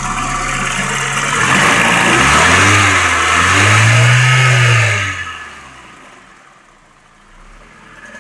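VW Passat B3's 9A 2.0-litre 16-valve four-cylinder engine, running on a Megasquirt standalone ECU, revved twice: a short blip and then a longer rev, each rising and falling in pitch, before it drops back to a much quieter idle.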